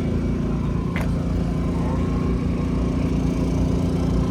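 An engine running steadily with an even low hum, and one sharp click about a second in.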